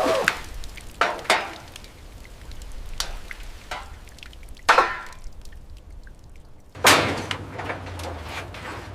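Scattered sharp knocks and clinks, about a second or more apart, some with a short ringing tail, with a low steady hum that comes in near the end.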